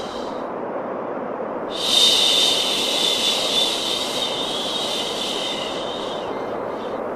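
Steady white noise for infant sleep: a broad, even rushing hiss. A brighter high hiss layered over it drops out just after the start, comes back about two seconds in, and fades again near the end.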